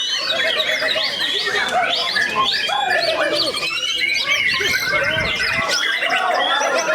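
Many caged songbirds, chiefly white-rumped shamas (murai batu), singing at once in a dense, overlapping chorus of whistles, chirps and gliding notes.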